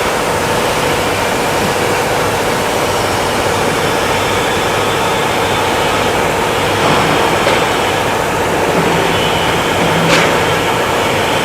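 Steady, loud machinery noise with a constant hum running under it, and a couple of faint short ticks near the end.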